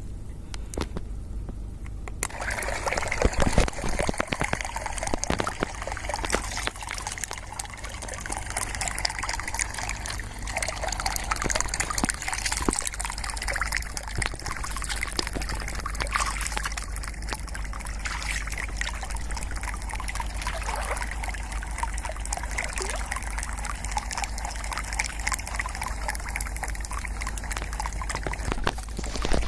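Water trickling and splashing with small irregular clicks and drips, starting about two seconds in, over a steady low hum.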